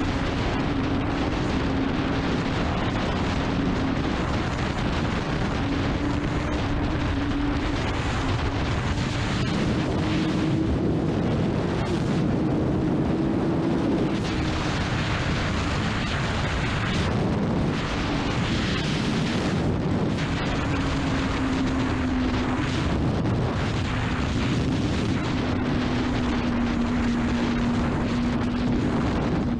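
Honda CBR600RR sport bike's inline-four engine running at steady cruising revs while riding. Its note climbs a little about halfway through and then eases back, under heavy wind rush on the microphone.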